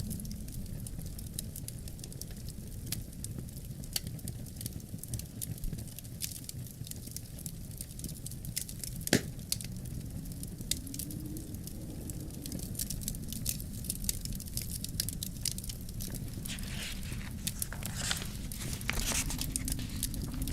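Wood fire crackling in a fireplace, with frequent small sharp pops and one louder pop about nine seconds in, over a low steady rumble of wind.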